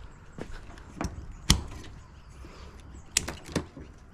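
A few sharp knocks and clatters of dishwasher parts being handled and set down or tossed aside during a teardown, the loudest about a second and a half in and a quick cluster near the end.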